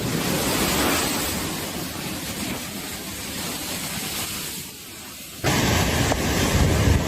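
Storm wind and rain blowing against the microphone as a steady rushing noise. It cuts off abruptly about five and a half seconds in to a louder stretch of the same rushing noise, with a faint steady tone over it.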